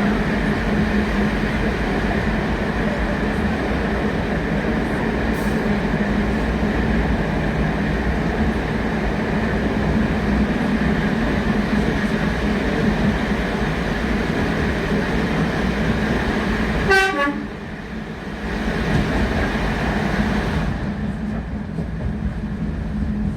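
Train noise: a steady rumble with a low hum, and one short horn toot about three-quarters of the way through, after which the rumble drops away.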